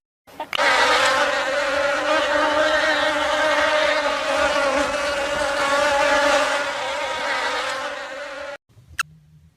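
Steady insect buzzing, even in pitch, that stops abruptly near the end, followed by one short high chirp.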